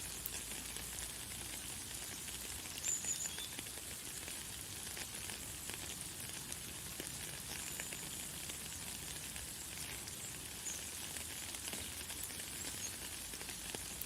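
Light, fine rain falling steadily, an even hiss of many small drops. A few brief, very high bird chirps come through now and then.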